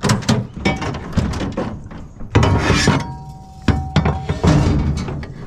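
Scrap being handled: a run of knocks, clinks and thuds, with a short scraping rush about halfway through and a brief ringing tone just after it.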